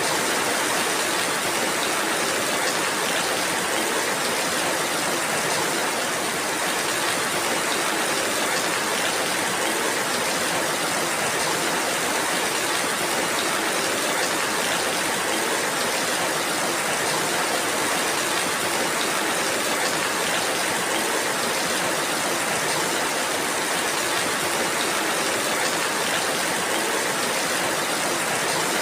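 Steady rainfall, an even, unbroken wash of noise with no single drops or other events standing out.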